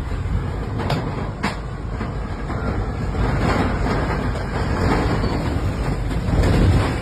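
Tornado wind blowing hard against the microphone: a continuous low rumbling with two sharp knocks about a second in.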